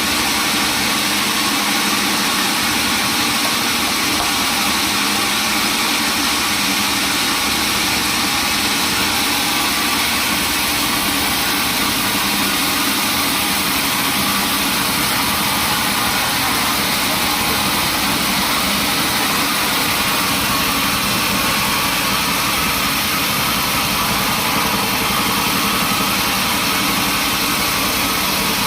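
Sawmill machinery running steadily, a constant engine-like hum with a hiss that does not change.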